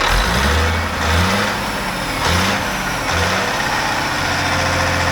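Caterpillar C15 diesel engine in a Peterbilt truck, revved in about four quick throttle blips, then settling back to idle. It takes the throttle cleanly and sounds good once the fuel system is primed, though a failing fuel transfer pump is suspected.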